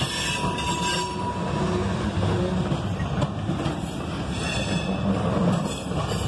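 Ballast hopper cars of a freight train rolling past, a steady rumble of steel wheels on the rails. A thin high squeal from the wheels sounds in the first second.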